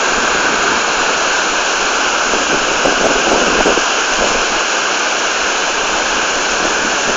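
Pistyll Rhaeadr waterfall in full flow after heavy rain: a loud, steady rush of falling water that never lets up.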